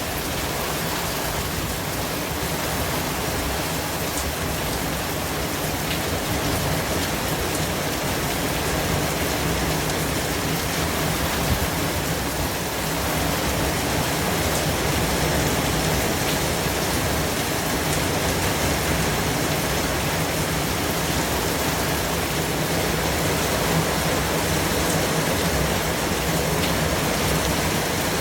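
Steady white noise: an even hiss across all pitches with a few faint ticks, getting slightly louder about halfway through.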